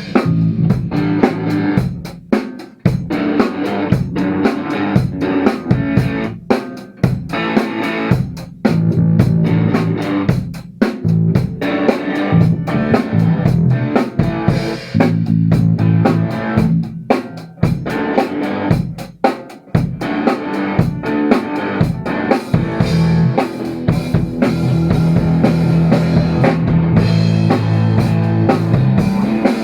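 Electric guitar played through a homemade 1-watt single-ended valve amplifier built in the style of a Supro, with a drum kit playing a steady rock beat along with it.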